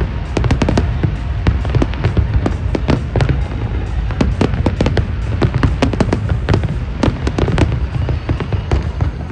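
Fireworks display exploding: a dense run of sharp bangs and crackles, several a second, over a steady low rumble.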